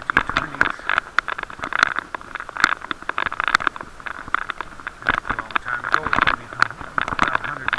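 Bicycle ride heard through an action camera's waterproof case: a steady muffled rumble of road and wind with frequent irregular clicks and knocks as the case rattles over the road.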